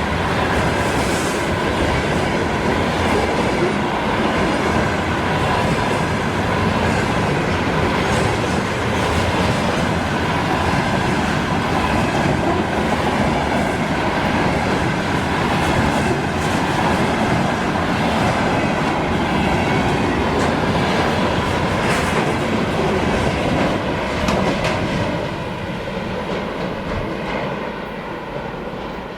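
Freight train rolling past, its wagon wheels clattering over the rail joints. The noise dies down over the last few seconds.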